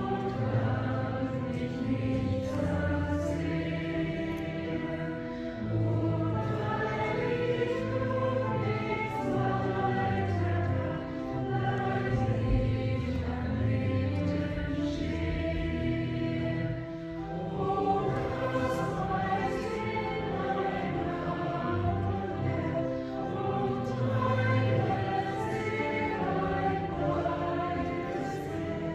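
Many voices singing a Christmas hymn together, with organ accompaniment holding low sustained notes beneath the changing chords.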